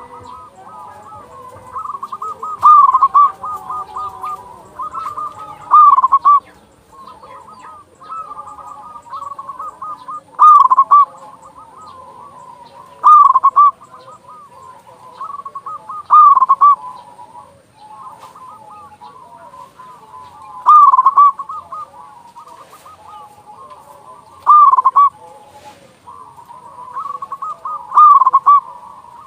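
Zebra doves (perkutut) cooing: a loud, rhythmic coo phrase comes every three seconds or so, nine times, over softer steady cooing and trills in between.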